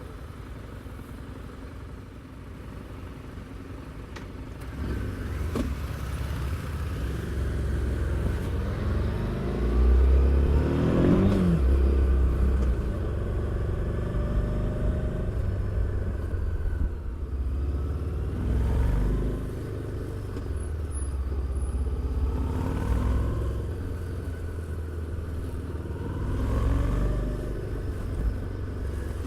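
Harley-Davidson Street 750's V-twin engine and exhaust under way, a low rumble that grows louder about five seconds in. It pulls up in pitch hard around the middle, then rises and falls several more times as the throttle is worked.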